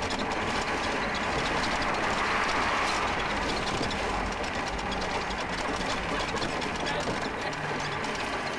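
Steady rolling road and wind noise of a towed riding lawn mower and its tow vehicle moving along a road, an even rushing rumble with no clear engine note.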